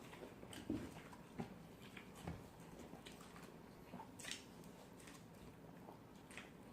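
Faint chewing and mouth sounds of a person eating, with a few scattered soft clicks and smacks.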